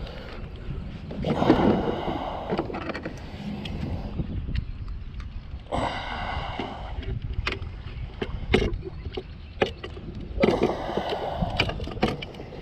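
Handling noise in a kayak while a caught chain pickerel is unhooked: three bursts of splashing, rustling noise about a second in, near the middle and near the end, with scattered sharp clicks and knocks between them.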